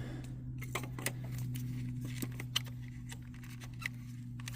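Scattered light clicks and taps of an ignition coil being handled, pushed down into its spark plug well and its connector plugged on, over a steady low hum.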